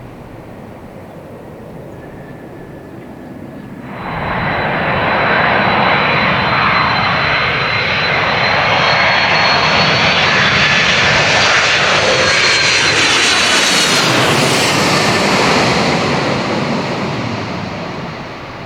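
Airliner passing low overhead: engine roar that rises sharply about four seconds in, holds with a high whine, drops in pitch as it goes past, then fades.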